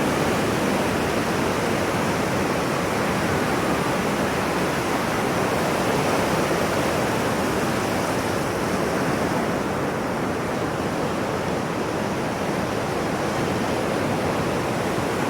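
Ocean waves washing in as a steady, even rush of surf with slow, gentle swells in loudness.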